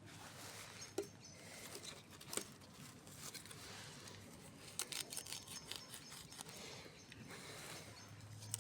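Wood campfire crackling, with scattered sharp pops over a soft hiss.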